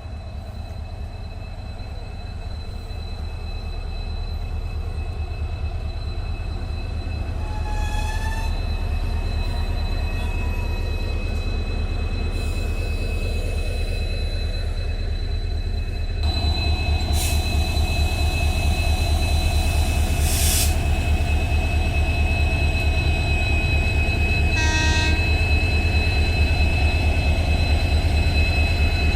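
A diesel locomotive, the EMD WDP4D, runs with a deep, fast-pulsing engine rumble that grows steadily louder and steps up about halfway through, over two steady high whines. Short hisses of air come a little after the middle, and a brief horn-like tone sounds near the end.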